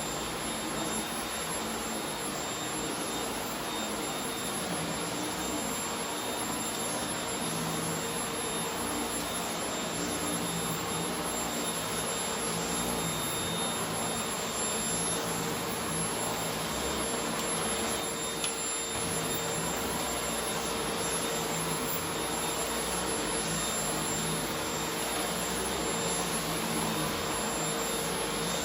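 Corded paper-bag vacuum cleaner running steadily: a constant rush of air with several steady whining tones from the motor.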